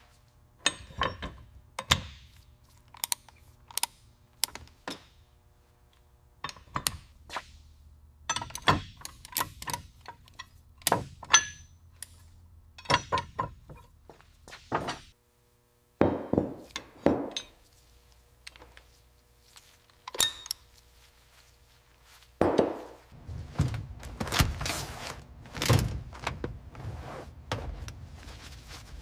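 Workshop handling sounds: a string of sharp knocks, clinks and thunks in irregular clusters, as of tools and car parts being picked up, set down and fitted. The knocks are sparse at first and come thicker and louder for the last several seconds.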